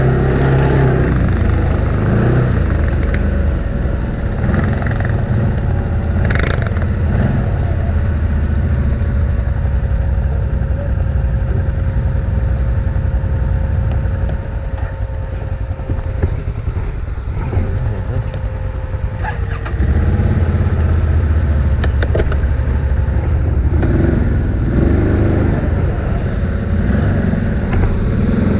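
ATV engine running under load, with a steady thin whine over the engine for much of the time. The engine drops back somewhat, then comes up louder again about twenty seconds in.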